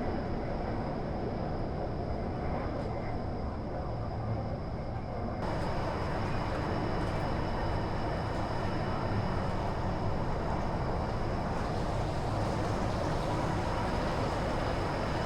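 Inside a Northern Class 333 electric multiple unit under way: a steady rumble of wheels on the track, with a faint high whine over it. About five seconds in the sound turns suddenly brighter and stays that way.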